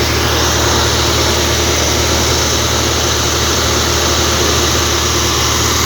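Bore-well drilling rig's engine running steadily: a constant low hum with an even hiss over it.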